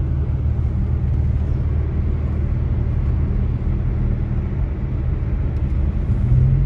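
Car driving, heard from inside the cabin: a steady low engine and road rumble, with the engine note changing slightly near the end.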